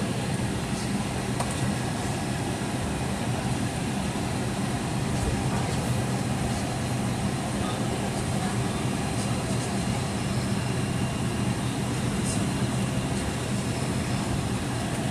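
Steady cabin hum inside a Boeing 757 on the ground: an even rush of air with a low, constant drone under it and a few faint ticks.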